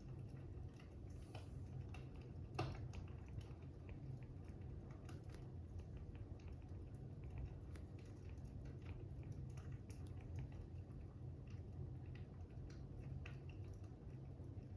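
Fire crackling: irregular small pops and crackles with one sharper pop about two and a half seconds in, over a steady low rumble.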